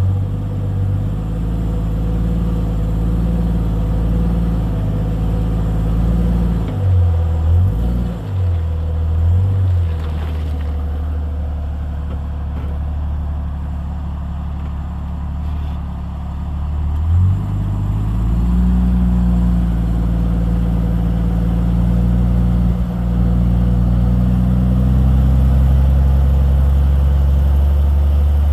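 Jeep Cherokee XJ rock crawler's engine running at low revs while crawling, with brief throttle blips about seven to ten seconds in and again about seventeen seconds in.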